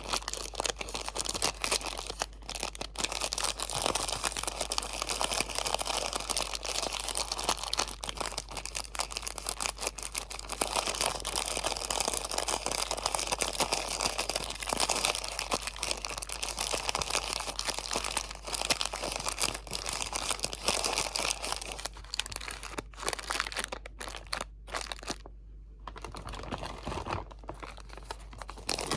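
Crinkly material crumpled and handled right up against the microphone: a dense, continuous run of crackles that thins out, with a few short pauses, near the end.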